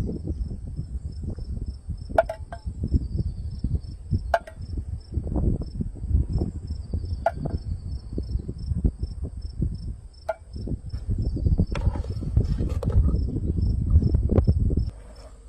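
Crickets chirping in an even pulsing rhythm alongside a steady high insect trill, under louder irregular rustling and clicking that stops about a second before the end.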